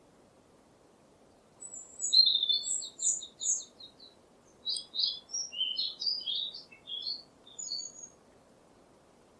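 A songbird singing: a quick run of repeated high notes about a second and a half in, then a string of varied short chirping phrases that stop near the end. A faint low hiss of forest ambience lies under it throughout.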